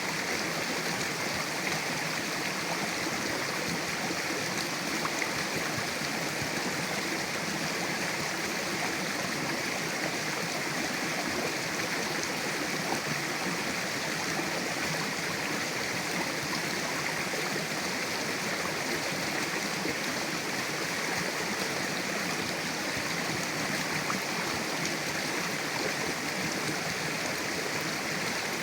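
Mountain river rushing over rocks, a steady, even flow of water with no change.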